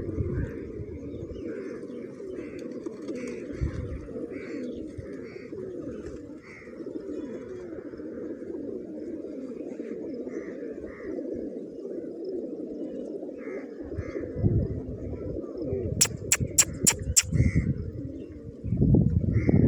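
Many pigeons cooing together without a break, with higher chirps scattered over it. A quick run of five sharp clicks about sixteen seconds in, and a few low thumps near the end.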